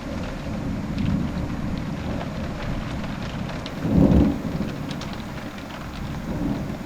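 Heavy thunderstorm rain falling steadily. About four seconds in, a short, loud, low clap of thunder.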